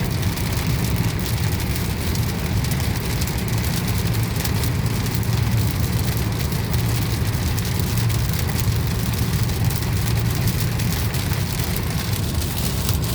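Heavy rain pattering on a car's roof and windshield, heard from inside the cabin over the car's steady low road and engine rumble.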